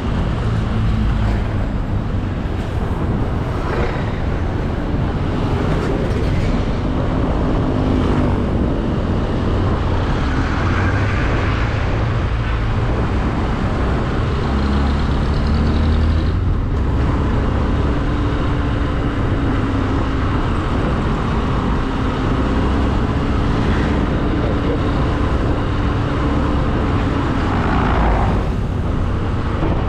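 Motorcycle engine running on the move, with a steady rumble and road noise; the engine note rises and falls with the throttle.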